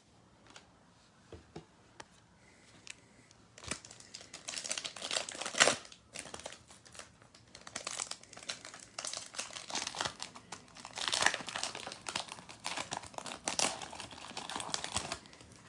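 A trading-card pack wrapper being torn open and crinkled by hand. It starts about three and a half seconds in and goes on in irregular bursts of crackling almost to the end.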